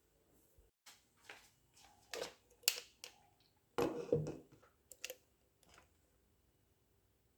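Scattered light clicks and knocks of kitchen items being handled, about half a dozen in the first five seconds, then quiet.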